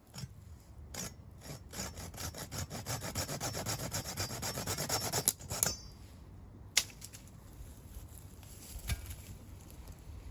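Hand saw cutting through wood in quick, even strokes that grow louder for about four seconds and then stop, followed by a single sharp knock.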